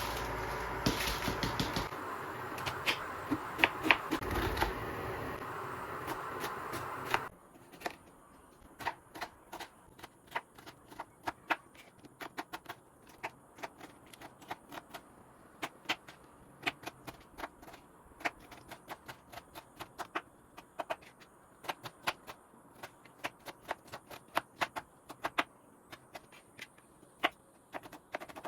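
A steady rushing noise with clicks in it, which cuts off suddenly about seven seconds in. After it comes a long run of sharp, irregular clicks and taps, a few each second.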